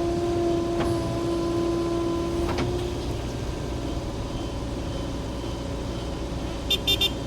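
Diesel engine of a backhoe loader running steadily during loading work, with a steady whine that stops about three seconds in. Two light knocks come during the whine, and three quick high beeps sound near the end.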